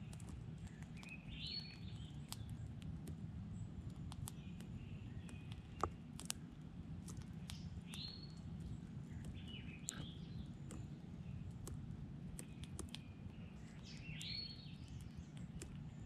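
A songbird gives a short call that falls in pitch, four times, over a steady low outdoor rumble. Scattered small sharp clicks run through it, with one louder click about six seconds in.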